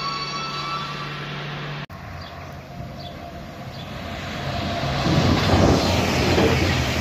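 An approaching diesel locomotive's low drone with a held multi-tone horn chord that fades out within the first second. It cuts off abruptly, and a passenger train then comes through the station at speed, a rushing rumble of wheels on rails that builds and is loudest as it passes, about five seconds in.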